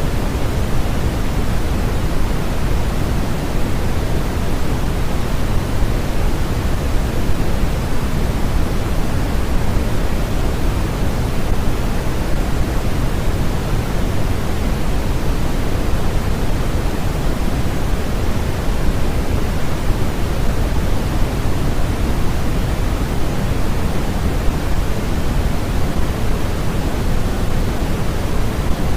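Constant generated noise for sleep or focus: a smooth, unchanging rush with no pattern or events, fuller in the low end than in the top.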